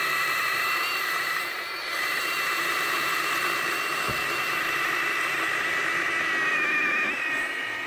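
Milwaukee M18 Hatchet battery mini chainsaw running through a big cut: a steady high whine from the motor and chain, its pitch wavering near the end. A brief knock about halfway through.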